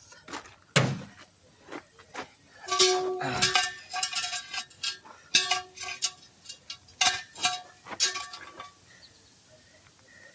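Wheel weights being knocked and pried off a tire rim with a metal tool: a run of sharp metal clinks and taps, many leaving a short ringing tone, thinning out near the end.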